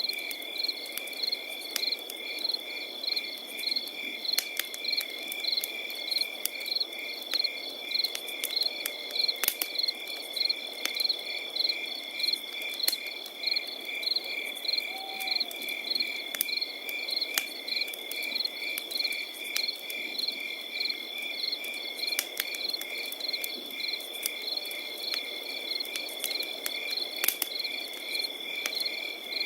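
Crickets calling without pause: one high, continuous trill with rhythmic chirping layered over it at about two chirps a second. Beneath them a campfire crackles with a low hiss and scattered sharp pops.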